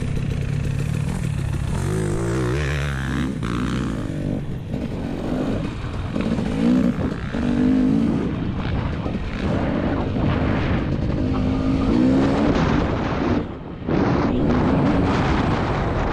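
2022 KTM 300 TPI two-stroke motocross engine, running steadily at first, then revving up and down over and over as the throttle is opened and closed, with a brief dip when the throttle is shut about three seconds from the end.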